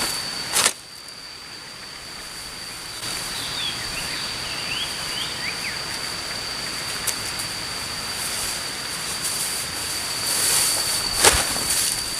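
Forest ambience with a steady, high-pitched insect drone, and a few short bird chirps about three to five seconds in. Two sharp knocks stand out, one just after the start and one near the end.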